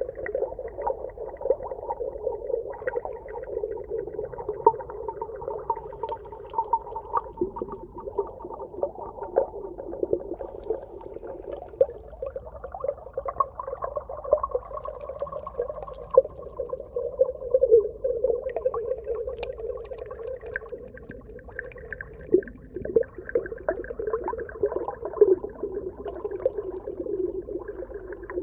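Underwater ambience: a muffled, wavering hum with a higher tone that comes and goes, over frequent short clicks and crackles.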